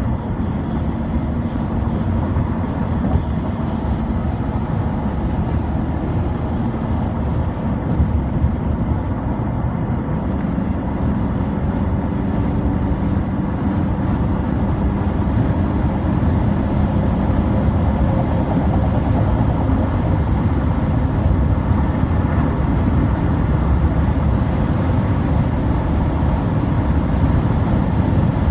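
Steady low rumble of highway traffic with heavy trucks, engines and tyres running continuously and growing slightly louder through the stretch.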